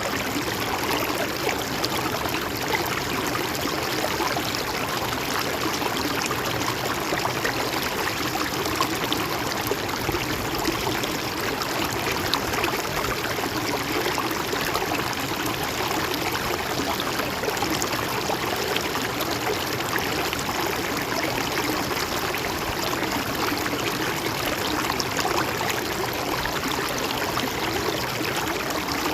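Stream water flowing steadily over rocks, a constant rushing with small trickling splashes.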